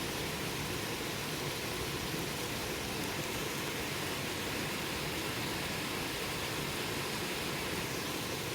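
Campfire burning: a steady, even rushing hiss with no distinct crackles or pops.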